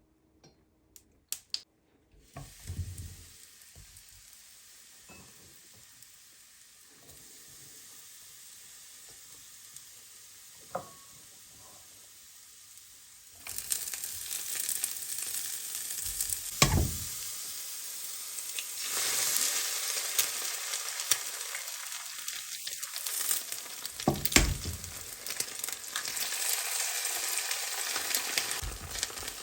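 Food frying in a pan: a faint sizzle that grows, then turns loud and steady about halfway through, with a few sharp knocks of a utensil against the pan.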